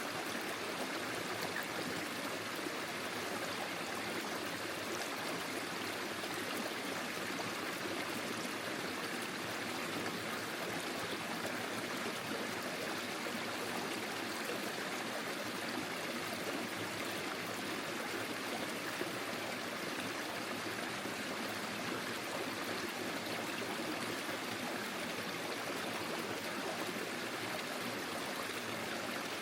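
Small forest stream flowing over stones, a steady, even rush of water.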